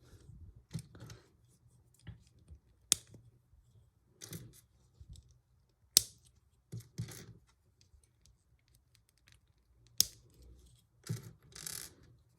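Small Lego pieces being handled and snapped together: three sharp clicks a few seconds apart, with softer rustling of parts between them.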